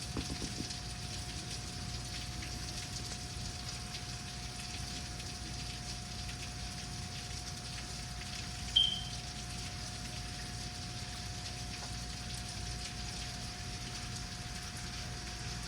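Steady rain falling, with a faint steady hum underneath. A single short, high-pitched chirp sounds a little past halfway and is the loudest moment.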